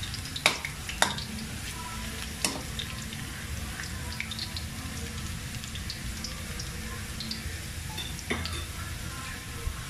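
Cubed potatoes frying in a little oil in a wok, browning: a steady low sizzle with scattered crackles. A few sharp clicks stand out, the loudest about half a second and a second in.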